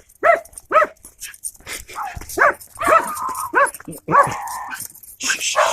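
Dog barking in a series of about seven short, high-pitched yaps, one of them a little longer about four seconds in.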